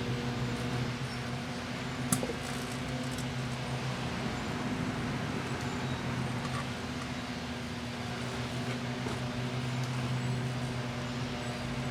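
Two Proctor-Silex microwave ovens running together: a steady transformer hum over the noise of the cooling fans, with one sharp click about two seconds in.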